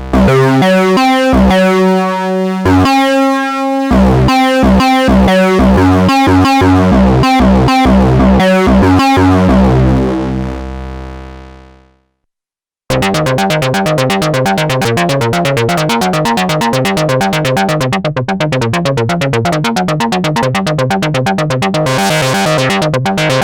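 Korg monologue monophonic analog synthesizer playing factory presets: a line of pitched notes, some held, fades out about ten to twelve seconds in. After a second of silence a different preset starts a fast, evenly repeating pattern of short notes.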